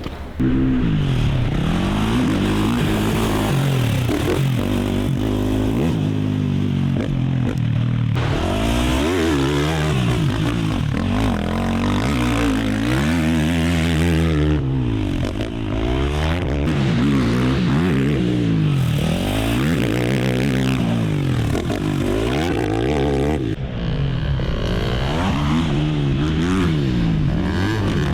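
Race quad's engine revving up and falling back over and over as it is ridden hard, its pitch climbing and dropping through the gears. It starts abruptly about half a second in.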